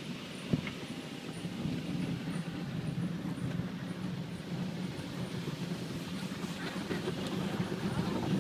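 Autec automatic car wash machinery running over the car, heard from inside the cabin: a steady hum with a sharp knock about half a second in and a few faint ticks.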